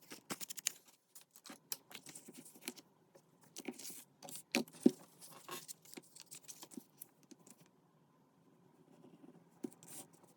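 Paper and craft materials being handled: scattered light taps, clicks and paper rustles, with one sharper click about halfway through and a quieter stretch after it.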